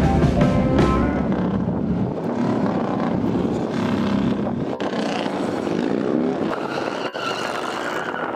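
Motorcycle engine running hard at changing revs, with a rising rev about six seconds in and two brief dropouts in the sound.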